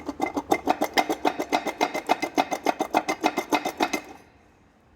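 Audi A4 engine running with a rapid, even knocking, about ten knocks a second, from a worn-out dual-mass flywheel that needs replacing; it stops about four seconds in.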